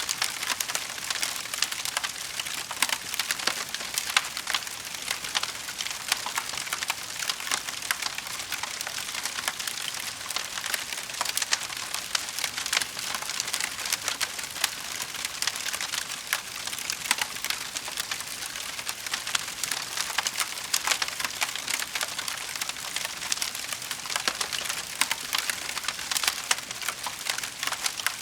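Wood fire crackling in a fireplace: a steady hiss with a dense run of small pops and snaps, a few louder ones standing out.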